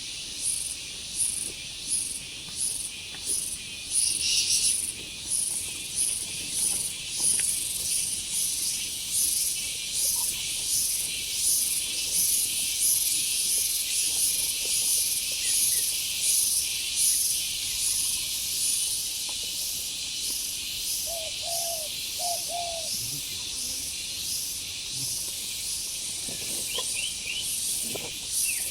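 Dense chorus of insects, a high shrill buzz that pulses roughly twice a second. A few short low bird-like notes sound briefly about two-thirds of the way through.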